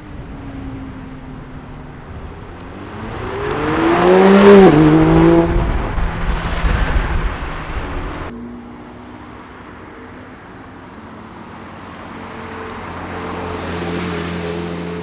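A car accelerating hard past, its engine note climbing to a loud peak about four and a half seconds in, then dropping as it goes by. After an abrupt cut about eight seconds in, another car's engine is heard approaching and getting louder near the end.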